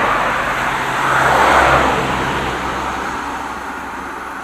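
A motor vehicle passing by on the road, its tyre and engine noise swelling to a peak about a second and a half in, then slowly fading away.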